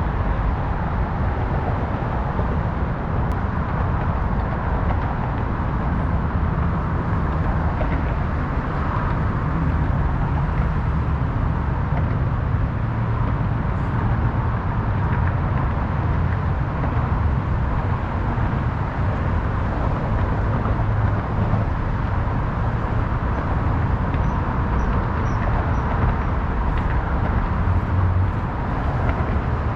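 Steady city ambience dominated by a constant rush of road traffic, with a heavy low rumble and no pauses.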